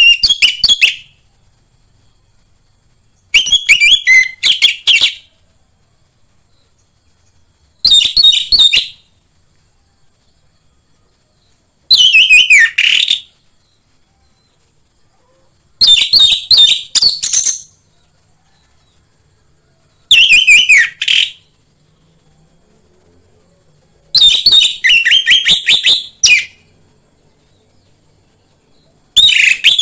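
Orange-headed thrush song: short phrases of rapid whistled notes, each lasting one to two seconds, repeated about every four seconds, over a steady high hiss.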